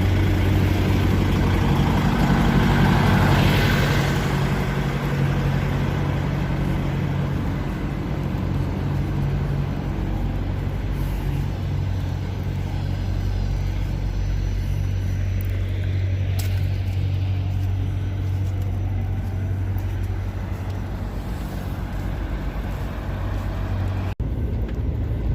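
Heavy truck's diesel engine droning steadily inside the cab while driving, with a hiss of wind and tyre noise on the snowy road that swells for a moment about three seconds in. The sound cuts out briefly just before the end.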